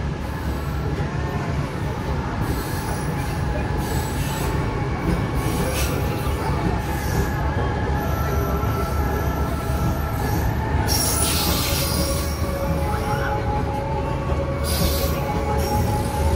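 Locomotive-hauled local train pulling into the station, its wheels squealing in several steady tones over the low rumble of the diesel-electric CC 201 locomotive. Two bursts of hiss come about 11 and 15 seconds in.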